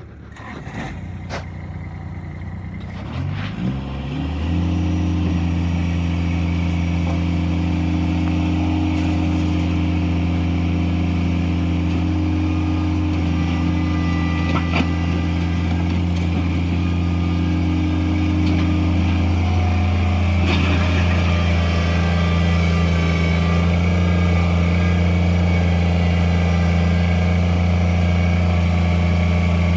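Kubota BX25 tractor's three-cylinder diesel engine starting a few seconds in after some clicks, its pitch rising quickly, then running steadily at a fixed speed.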